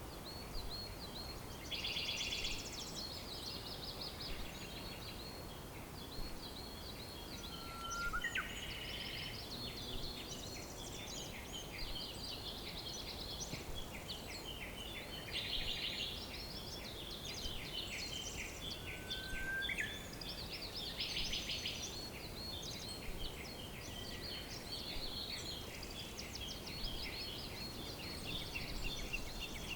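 A chorus of several wild birds chirping and trilling without pause, over a low steady background hiss. A short rising whistle stands out about eight seconds in and again near twenty seconds.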